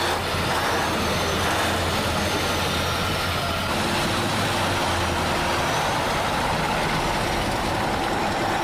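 Heavy truck engine running steadily with a dense rumble and a faint high whine rising and falling above it.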